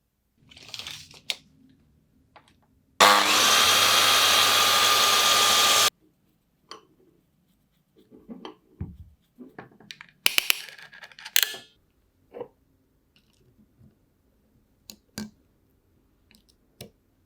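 Workshop tool sounds: a loud steady machine noise runs for about three seconds, then a scattering of separate clicks and knocks, with a short cluster of louder ones partway through.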